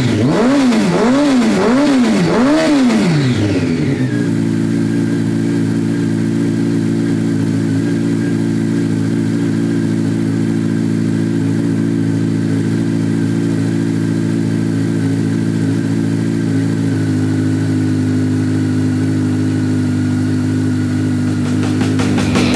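Honda CBR1100XX's inline-four engine through Scorpion Oval Carbon slip-on exhausts with the dB killers removed. It is revved in several quick blips, then settles to a steady idle about four seconds in.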